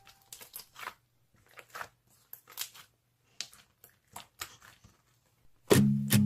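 Slime being handled: faint, irregular sticky clicks and crackles, about fifteen in all. Near the end a song's strummed acoustic guitar comes back in loudly.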